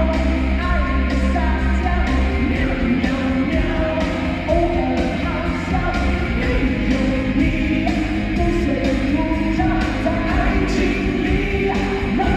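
A solo singer performing a song over loud backing music with a steady beat and bass. A long held bass note gives way to a pulsing bass line about two seconds in.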